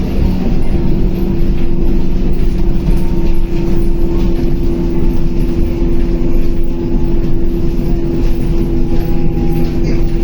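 Scania K280UB city bus running under way, heard from inside the passenger cabin: a steady deep diesel drone with a whine that steps up in pitch about a second in and then holds.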